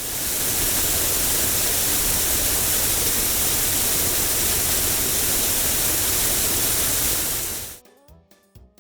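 Cartoon car-wash sound effect: a steady, loud hiss that starts abruptly and cuts off suddenly about a second before the end, with soft music notes following.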